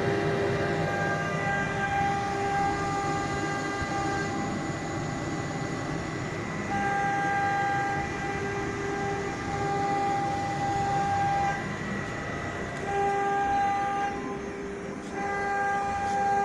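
Minimo 1318G CNC milling-engraving machine running a job: its motors whine in several steady pitched tones that start and stop every second or two as the machine moves, over a steady mechanical noise.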